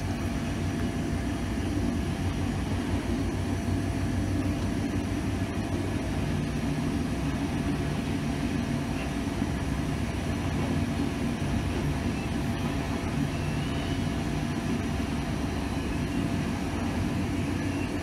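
Passenger train running at speed on main-line track: a steady low rumble of wheels and running gear, heard from inside the train.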